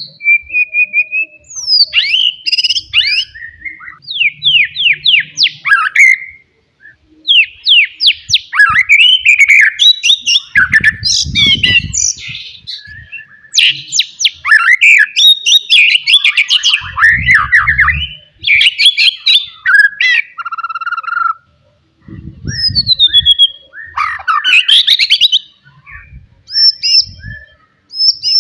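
Wild-type white-rumped shama singing loudly: a rapid, varied run of whistles, fast chirp series and sliding notes, broken by short pauses. Three brief low thumps sound under the song.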